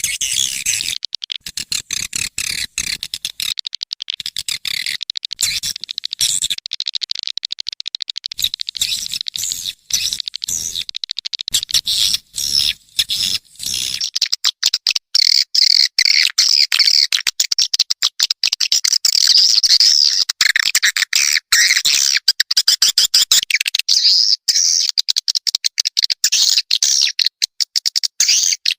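Swiftlets chirping and twittering in a fast, dense stream of high, clicky chirps, growing fuller and steadier about halfway through. It is a swiftlet call sound, the kind played to lure swiftlets into a nesting house.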